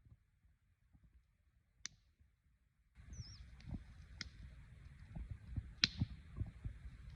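Near silence with a single click, then from about three seconds in an outdoor background: a steady hiss, scattered low knocks, a few sharp clicks and a brief falling bird chirp.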